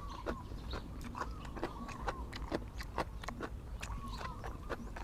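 Close-up chewing of crunchy shredded green papaya salad: irregular crisp crunches, several a second, with wet mouth sounds.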